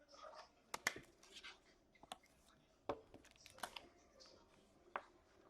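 Hockey trading cards being handled and flipped through: faint rustling and sliding with a handful of sharp little clicks.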